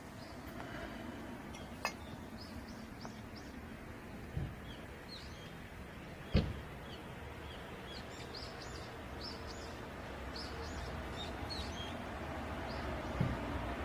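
Small birds chirping over a low, steady rumble of background noise, with a few sharp knocks, the loudest about six seconds in.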